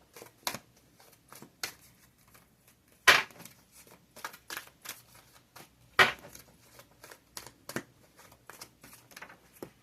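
Cards being handled and shuffled: irregular soft clicks and taps, with two sharper knocks about three and six seconds in.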